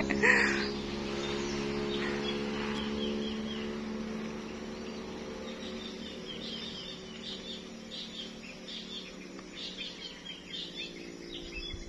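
Small birds chirping again and again, over a steady low hum that fades away about nine seconds in.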